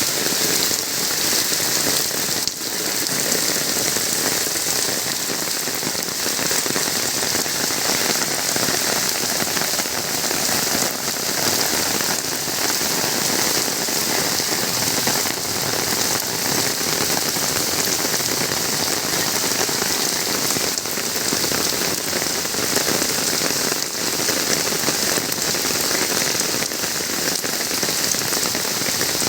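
Heavy rain falling steadily, a dense even hiss of raindrops on surfaces.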